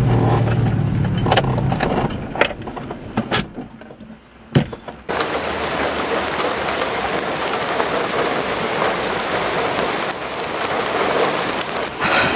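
A car engine hums low inside the cabin for about two seconds. A quieter stretch with a few sharp knocks and clicks follows, then, from about five seconds in, a steady rushing outdoor noise, like wind on the microphone.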